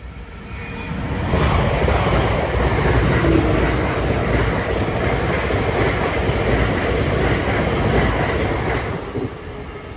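Electric passenger train passing over a level crossing, close by. The noise builds over the first second and a half, stays loud for about seven seconds, and falls away near the end.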